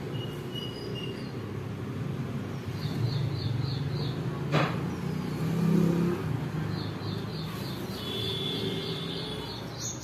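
Steady low rumble of road traffic, with a small bird's rapid runs of high chirps twice and a single sharp click near the middle.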